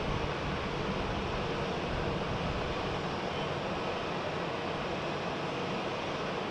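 Jet aircraft engine noise: a steady rush that eases slightly after the first couple of seconds.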